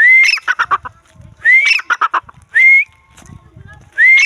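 Grey francolin (bhura teetar) calling: a loud, rising whistled note followed by a fast run of shorter, lower notes, the phrase repeated about three times.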